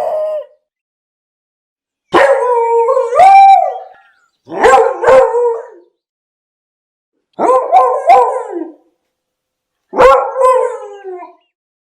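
A dog howling and baying in separate calls with silence between. A long drawn-out howl-bark of about two seconds comes first, then two quick pairs of barks, then a last bark that trails off falling in pitch.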